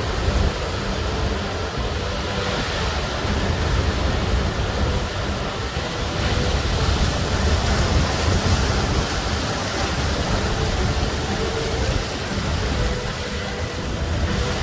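Ocean surf breaking and washing up a beach: a steady rush of noise over a deep rumble, swelling a couple of seconds in and again about halfway through.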